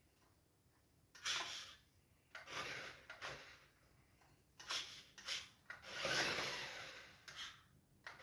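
Irregular bursts of rubbing and scraping, four or five in all, each lasting up to about a second.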